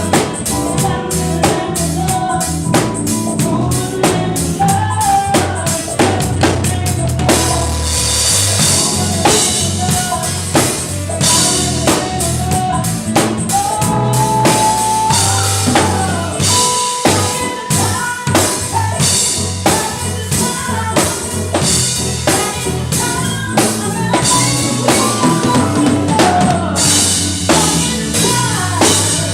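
Live band music led by a busy drum kit, with kick drum, snare and rimshot hits in a steady beat over a bass line and a wandering melodic line.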